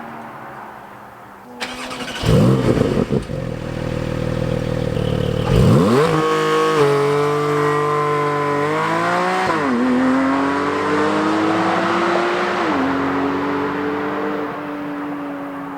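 Porsche 718 GT4's naturally aspirated 4.0-litre flat-six exhaust. It starts with a low, quiet note, then comes in with a sudden loud surge about two seconds in. The pitch climbs, drops sharply about nine and a half seconds in, and settles into a steady drone.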